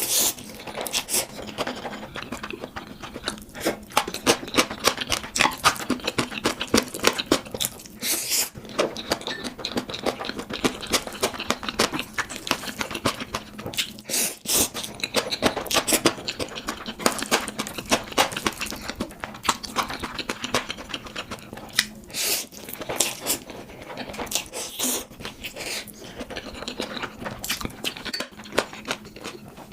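Close-miked chewing and slurping of spicy instant ramen noodles: a dense, continuous run of wet mouth clicks and smacks.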